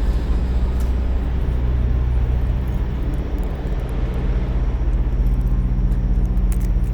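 Semi truck's diesel engine running steadily with a low, even hum.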